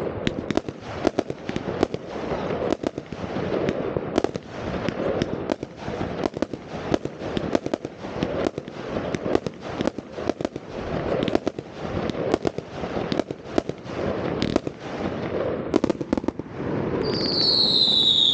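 New Year's Eve fireworks: a dense, continuous volley of bangs and crackling from many shots going off at once. Near the end a loud whistle falls in pitch over about a second.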